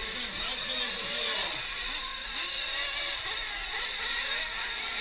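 Several nitro-engined RC truck engines running on the track at once, a high-pitched whine with pitches swooping up and down as they rev and brake.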